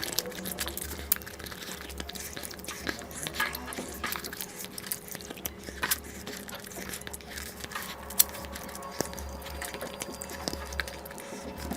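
Close-miked eating sounds: chewing and biting, with many irregular wet mouth clicks; one sharper click about eight seconds in.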